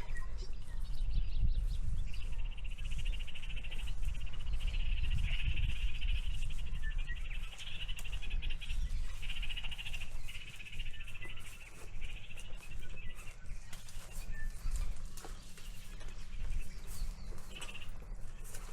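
Insects trilling in a high, rapidly pulsing chorus that fades after about fourteen seconds, over the low rumble of wind on the microphone.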